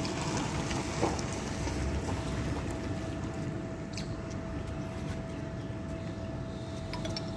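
Steady background noise with a faint, steady high tone running through it and a few light clicks.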